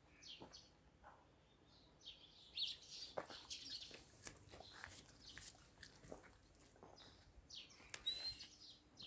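Faint, scattered chirps of small birds, busiest in the middle, with a short rising chirp near the end, mixed with a few light clicks.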